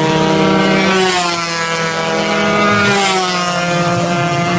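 Several 120cc two-stroke racing motorcycle engines running at high revs. Their pitch climbs and falls repeatedly as the bikes accelerate and ease off around the track.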